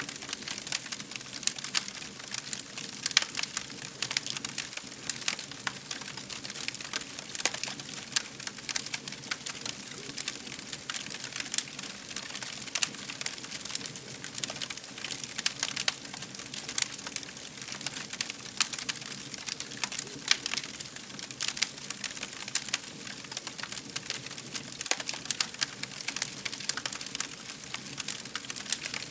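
Wood fire crackling: many small sharp pops and snaps over a steady hiss.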